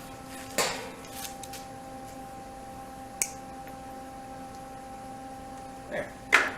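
Two sharp hammer blows on a sheet-metal patch panel, one about half a second in and one near the end, with a small click between them. A faint steady hum runs underneath.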